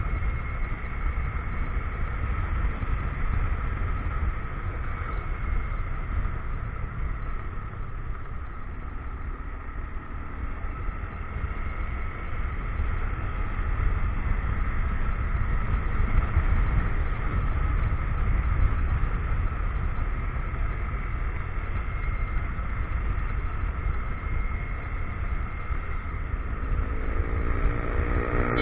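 Motorcycle riding along, its engine running with steady wind rumble on the action-camera microphone and a steady high whine on top. The engine note rises and falls a little partway through.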